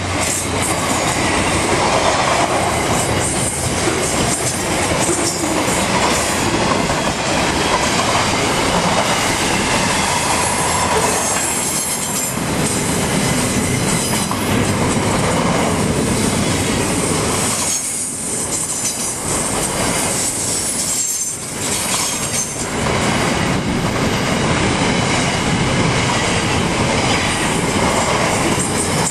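Intermodal freight train wagons rolling past: a steady rumble and clatter of steel wheels on the rails, with high wheel squeal at times. The noise dips briefly twice about two-thirds through.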